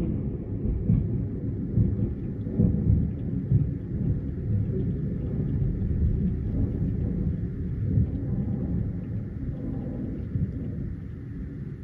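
Thunder rumbling long and deep, rolling in waves and slowly fading toward the end.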